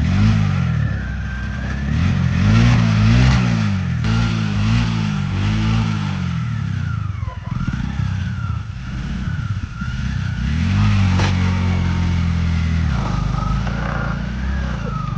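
Motorcycle engine running, revved up and down about five times in quick succession, then held at a steady speed.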